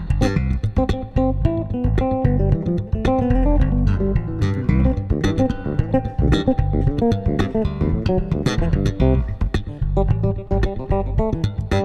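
Two bass guitars playing an instrumental piece together: one holds low bass notes while the other picks a busy melodic line of plucked notes higher up.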